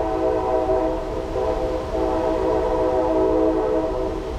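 Train horn sounding a long, steady chord of several notes, over the low rumble of the passing train. The horn thins out near the end.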